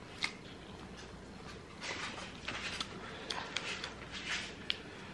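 Close-up eating sounds of a mouthful of burrito: a single soft click about a quarter second in, then a run of small wet clicks and smacks from chewing, starting about two seconds in.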